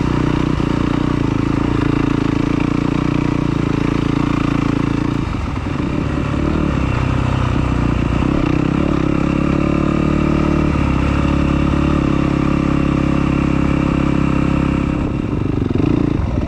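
Yamaha YZ250 two-stroke dirt bike engine running under throttle on a trail. The throttle eases off briefly about five seconds in and then comes back on.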